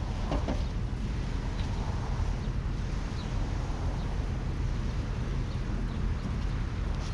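Steady low outdoor rumble with a few faint ticks and light knocks, one brief scuff about half a second in.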